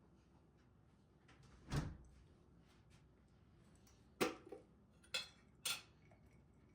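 Household handling sounds: a soft, low thud about two seconds in, then four short, sharp clicks or knocks in quick succession, like objects being set down or a door or drawer being worked.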